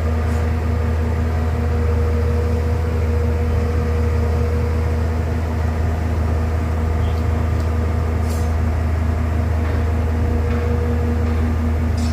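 Excavator's diesel engine running steadily with a deep, even hum, with a couple of brief high-pitched squeaks or clicks about two-thirds of the way through.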